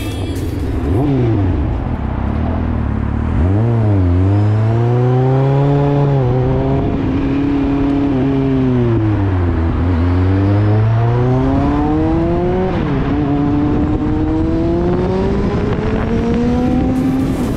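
Kawasaki Z750's inline-four engine accelerating through the gears: its pitch climbs under throttle and dips briefly at each gear change, falls once about midway as the bike slows, then climbs again, with wind rushing over the microphone.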